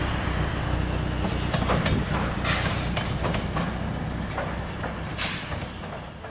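A train rolling along the track, with a low rumble and wheels clacking over the rail joints, the loudest clacks about two and a half and five seconds in. It fades steadily as it moves away.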